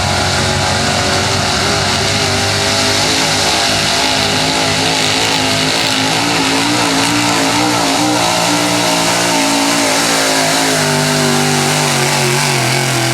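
Big-block pulling truck's engine running hard at high revs under load, dragging the sled. The pitch holds fairly steady with a slight waver.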